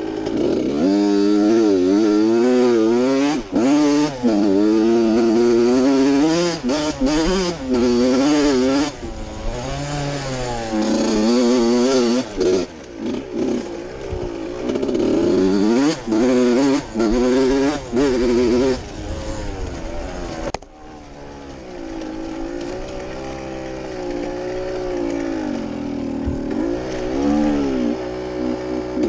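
Suzuki RM two-stroke dirt bike engine being ridden hard, revving up and dropping back again and again with short throttle cuts, then running lower and steadier for the last third. The bike has a transplanted four-stroke muffler off an Apollo 125 fitted in place of running without one.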